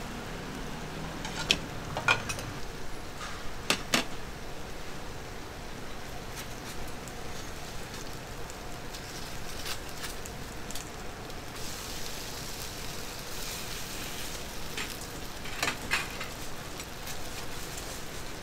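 Potstickers frying on a flat steel griddle pan with a steady sizzle, broken by sharp clinks of metal tongs and a spatula against the pan: a handful in the first four seconds and a couple more near the end.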